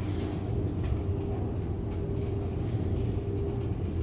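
Passenger lift car travelling between floors: a steady low hum and rumble from the drive, with a fainter higher hum above it.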